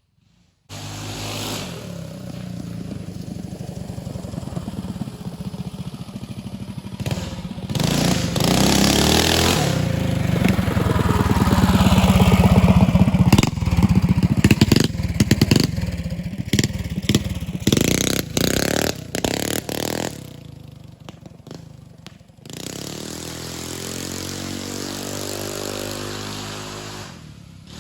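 Trailmaster MB200 mini bike's small single-cylinder engine being ridden, revving up and falling back repeatedly, through a header that needs baffling. A run of rattling knocks in the loud middle stretch, then it drops back briefly before revving up again near the end.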